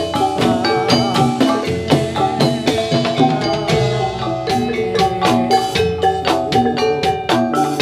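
Javanese gamelan playing jathilan dance music: bronze metallophones struck in a quick, steady stream of pitched notes, with other percussion underneath.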